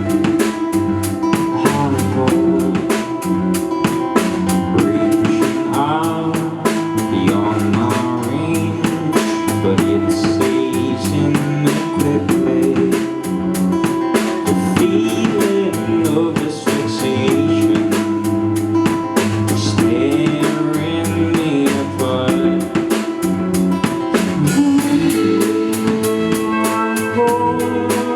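Live rock band playing at full volume: a drum kit keeps a steady beat over bass and guitar, and a voice sings at times.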